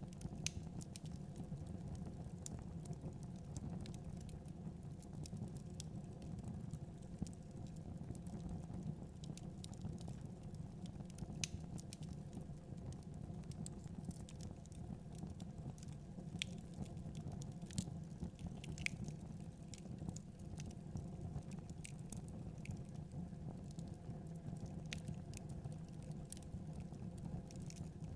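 Wood fire crackling, with scattered sharp pops every second or so, over a steady low rumble of wind.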